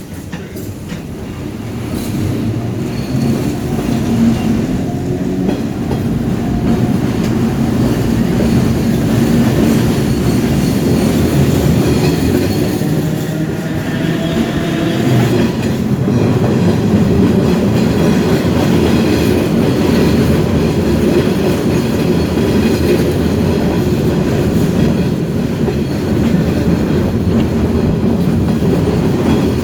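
Electric streetcar running along its track, heard from on board: a steady rumble of wheels on rails with some clacking. It gets louder over the first few seconds, and a faint motor whine rises in pitch for about ten seconds as the car gathers speed.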